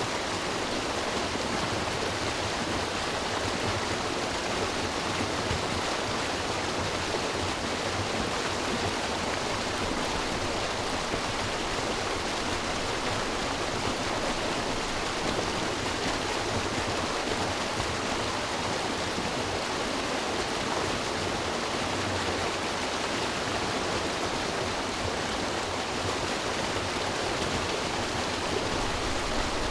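River water rushing and burbling over rocks, a steady even rush that doesn't change.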